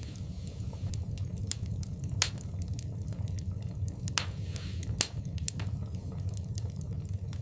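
Wood fire crackling in a fireplace: irregular sharp pops and snaps over a steady low rumble of flames, two louder pops about two and five seconds in, and a brief hiss just after four seconds.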